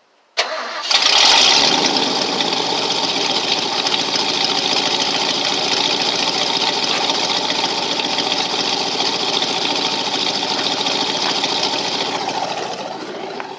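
A high-mileage pickup truck's engine cold-started through 12-inch glass-pack mufflers: a short crank about half a second in, a surge about a second in as it catches, then a steady loud fast idle that eases somewhat quieter near the end.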